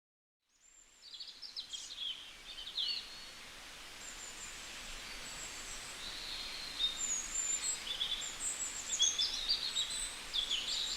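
Small birds chirping in quick, short calls over a steady background hiss, fading in from silence in the first second.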